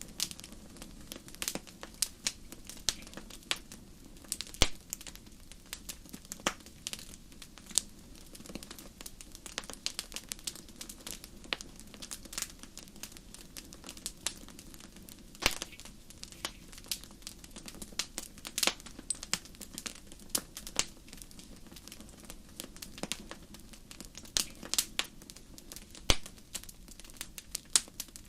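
Wood fire crackling: irregular sharp pops and snaps, a few much louder than the rest, over a faint steady low noise.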